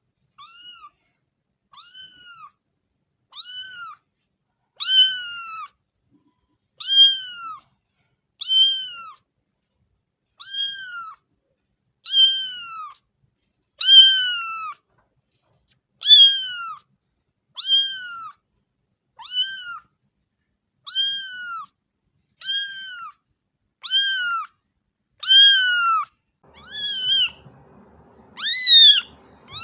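A cat meowing over and over at a steady pace, about one short rising-then-falling meow every second and a half.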